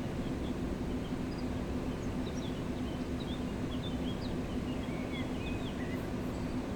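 Mountain river rushing steadily, with a small bird singing a run of quick, high chirps over it through the middle.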